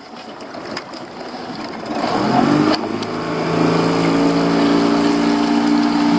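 Boat's outboard motor throttling up about two seconds in, its pitch rising and then holding at a steady higher note as the boat gets under way.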